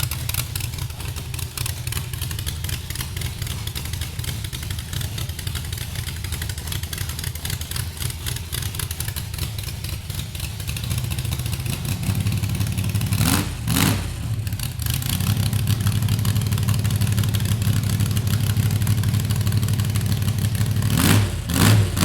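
Engine of a show vehicle running at idle, blipped up in two quick revs about two-thirds of the way through and revved several more times near the end.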